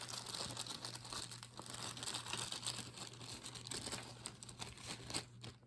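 Plastic bag crinkling and rustling as a handful of brooches is taken out of it, dying away near the end.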